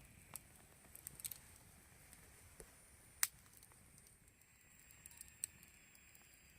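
Wood campfire crackling quietly, with scattered sharp pops; the loudest pop comes about three seconds in.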